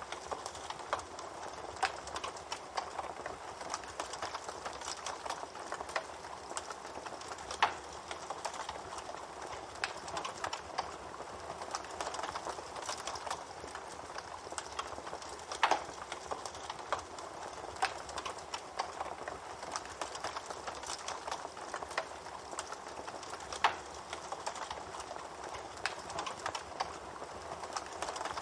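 Wood campfire crackling: a steady hiss full of small snaps, with a few louder pops about 8, 16 and 24 seconds in.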